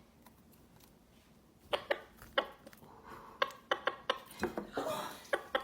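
Irregular sharp clicks and light knocks, about a dozen, starting about a second and a half in, with faint rustling between them.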